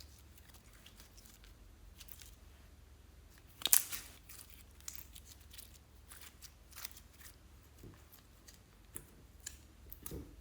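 Scattered crisp clicks and crackles from slime and its add-ins being handled and mixed by hand, with one loud snap about four seconds in.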